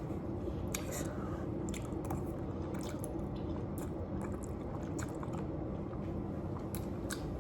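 Close-up chewing and wet mouth sounds, with scattered small clicks and smacks, over a steady low hum.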